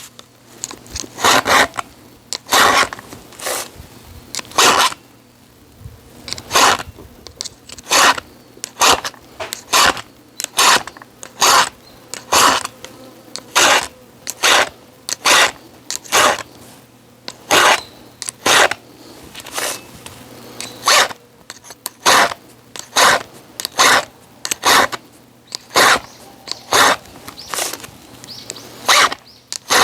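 Rhythmic rasping strokes of a hand tool worked back and forth, about one stroke every three-quarters of a second, with a short pause about five seconds in.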